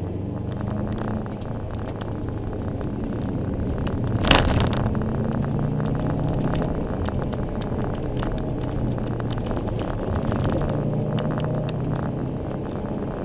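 Subaru Impreza WRX STI's turbocharged flat-four engine heard from inside the cabin, its revs rising and falling as the car drives a winding mountain road. A short sharp noise cuts through about four seconds in.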